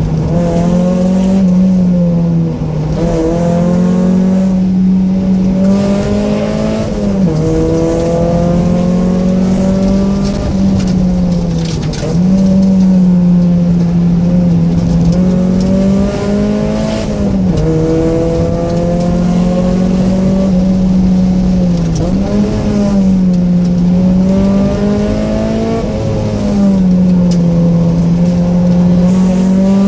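Mazda Miata's 1.6-litre inline-four, fitted with headers and an aftermarket exhaust, driven hard. The engine note holds high and then dips and climbs again every few seconds as the throttle comes off and back on through the bends.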